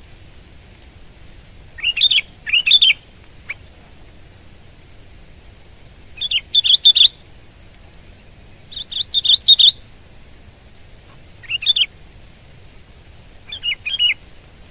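Sooty-headed bulbul (kutilang) singing: five short phrases of quick notes, a few seconds apart.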